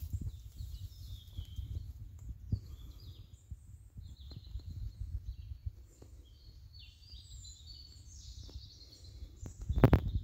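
Small birds chirping and calling on and off over a low rumble, with a few loud knocks near the end.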